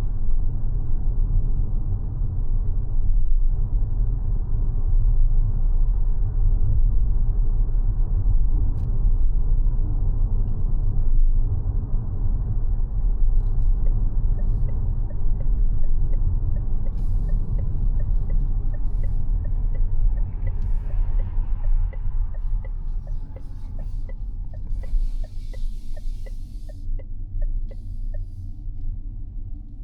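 Road and tyre rumble of a 2026 Mazda 6e electric sedan on the move, easing off in the last third as the car slows. From about halfway a faint regular tick sounds about one and a half times a second.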